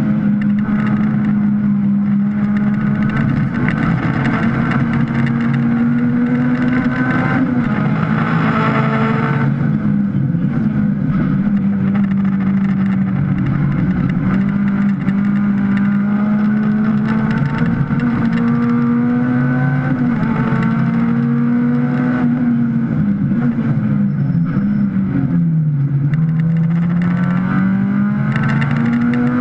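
Honda Civic race car's four-cylinder engine at racing revs, heard from inside the stripped, caged cabin over road and wind noise. The engine note holds fairly steady with brief dips as the throttle comes off, falls about three-quarters of the way through, then rises again as it accelerates.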